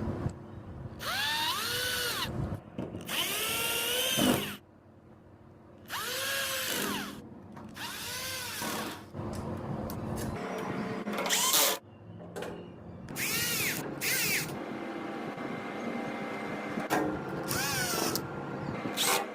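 Small electric motor whining in about seven short bursts, its pitch rising and falling again in each one, with a low steady hum between them.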